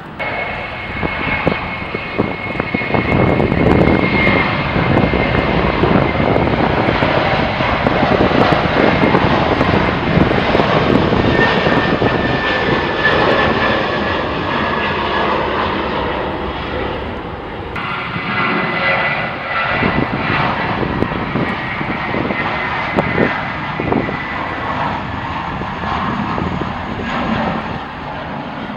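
Jet airliner engines running loud and close, a steady roar with a high whine that slowly falls in pitch. The sound changes abruptly about two-thirds of the way through, and a similar falling whine returns over the roar.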